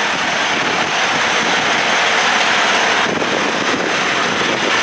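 Semi truck's diesel engine idling under a steady, loud hiss of wind-like noise.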